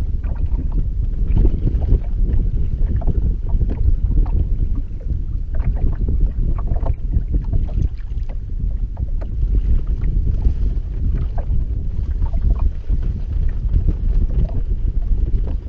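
Strong wind buffeting the microphone, a heavy, steady low rumble, with scattered light ticks and taps through it.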